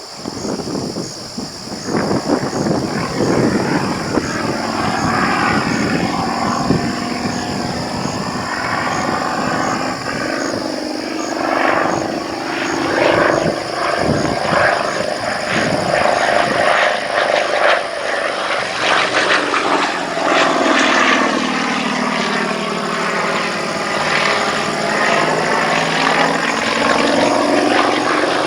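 Pitts Model 12 aerobatic biplane's nine-cylinder radial engine and propeller running at high power throughout an aerobatic routine, its pitch sweeping down and back up as the aircraft manoeuvres.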